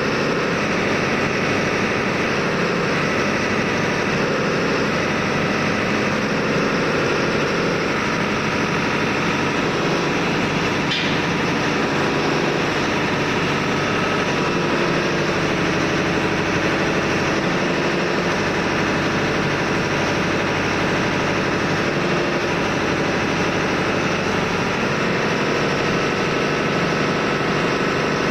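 Steady, loud drone of running engine-room machinery aboard a ship, unchanging throughout, with one brief sharp tick about eleven seconds in.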